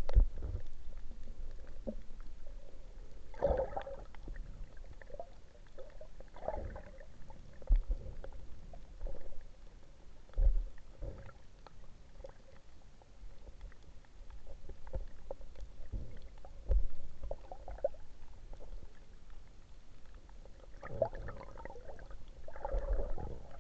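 Muffled water movement: irregular low thumps and gurgling splashes over a faint steady hum.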